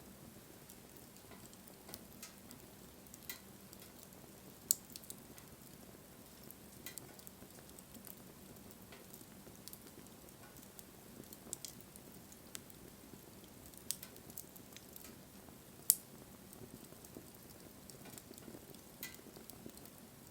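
Wood campfire burning: a soft steady hiss under scattered small crackles, with two sharp pops from the burning wood, one about five seconds in and a louder one near sixteen seconds.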